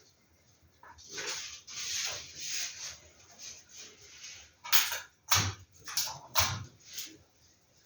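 Paper posters being handled and sorted: irregular rustling and sliding of paper, with a quick run of sharp taps and low thumps between about five and six and a half seconds in.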